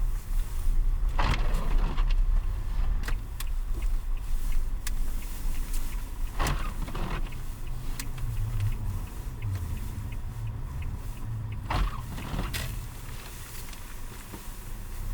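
Vehicle on the move with a steady low rumble, and a brief swish about every five seconds.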